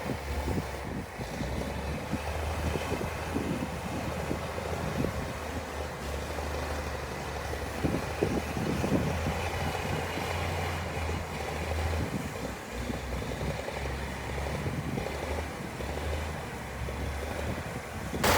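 Heavy diesel construction machinery running with a steady low engine drone and scattered faint knocks.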